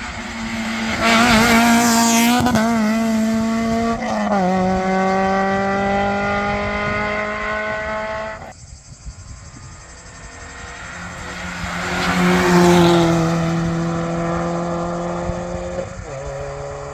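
Rally car engines at full throttle passing on a closed stage. About four seconds in the engine drops in pitch on an upshift and then climbs steadily, until the sound cuts off abruptly around eight seconds. A second pass builds to its loudest near thirteen seconds, with another upshift near the end.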